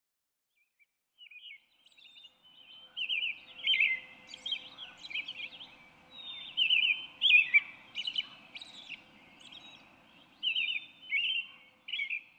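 A songbird singing: repeated short phrases of quick, high, down-slurred chirping notes with brief pauses between them, over faint steady background noise.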